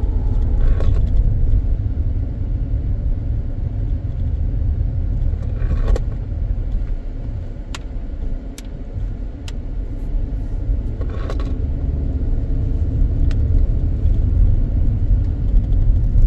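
A car driving, with a steady low rumble of engine and road noise, and a few brief clicks or small knocks scattered through it.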